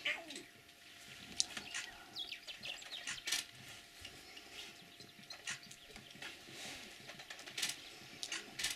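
Birds chirping in scattered short calls, mixed with a few sharp clicks.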